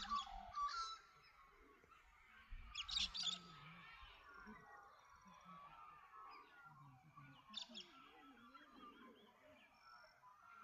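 Several birds singing at sunrise: loud bursts of rapid, high chirps come a few seconds apart, near the start, about three seconds in and about seven and a half seconds in, over fainter, continuous twittering from other birds.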